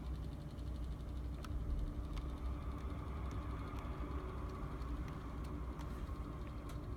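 HO-scale brass model electric locomotive running on track: a steady motor and gear hum with a whir, and scattered sharp clicks from the wheels on the rails.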